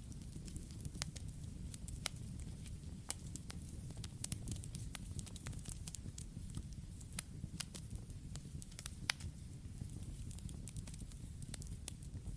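Campfire burning: a steady low rumble of flames with irregular sharp crackles and pops from the burning wood, a few louder pops scattered through.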